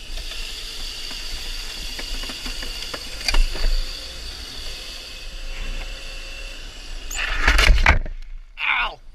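Razor MX650 electric dirt bike being ridden: a steady high motor and drive whine over low wind rumble. About seven seconds in it grows louder into a rush of noise, then cuts off suddenly.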